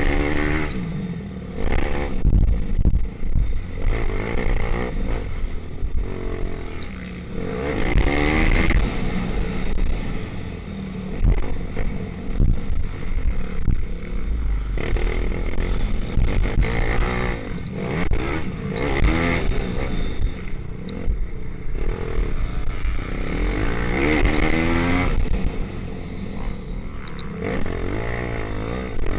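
Pit bike engines revving hard during a race, their pitch repeatedly climbing and dropping as the riders accelerate and shift gears.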